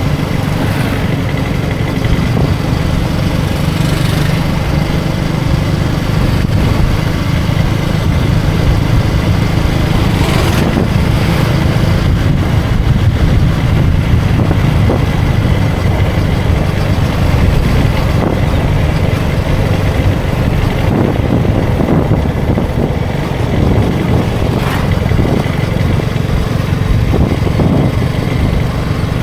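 KTM Duke 250's single-cylinder engine running steadily under way, with wind noise over it.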